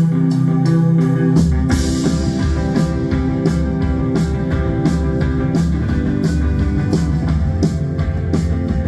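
Live rock band playing the instrumental opening of a song: guitar over a steady drum beat, with a low bass line coming in about a second and a half in.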